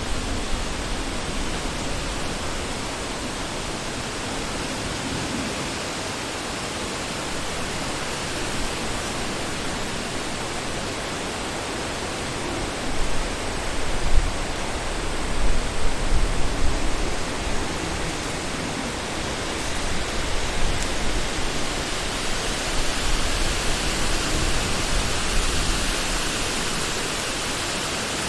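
Wind blowing through a forest, a steady rushing with low rumbling gusts that swell in the middle and again later on.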